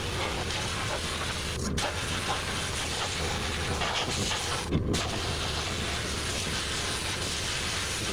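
Sandblaster blasting abrasive grit onto vintage VW wide-five steel wheels: a steady hiss of compressed air and sand, briefly interrupted twice, about two and five seconds in.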